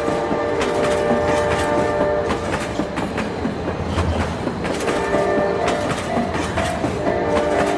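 A train running with a rapid clickety-clack of wheels over rail joints. Held tones sound in the first two seconds, and short repeated tones come in near the end.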